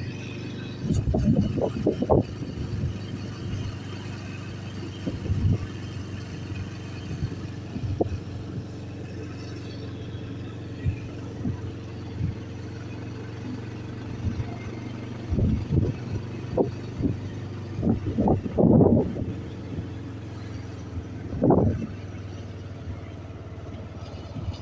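A steady low motor hum, like a running vehicle, with a few brief louder knocks scattered through it.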